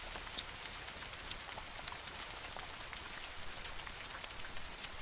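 Steady light rain falling: an even hiss with scattered faint drop ticks.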